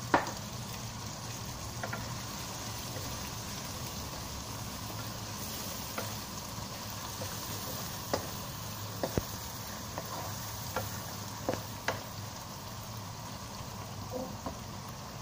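Chilli sambal with eggplant and anchovies sizzling steadily in an oily non-stick wok while a wooden spatula stirs it, knocking against the pan now and then. A sharp knock right at the start is the loudest sound.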